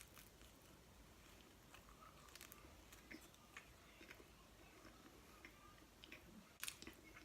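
Faint chewing of pizza: soft mouth clicks and crunches, with one louder, sharper crunch near the end.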